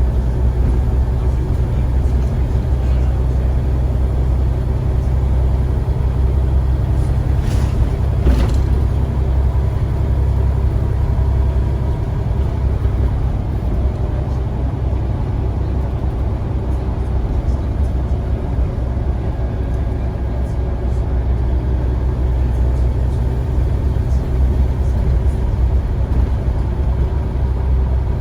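Scania CN94UA single-deck bus running, its engine a steady low drone, with two short knocks or rattles about seven to eight seconds in.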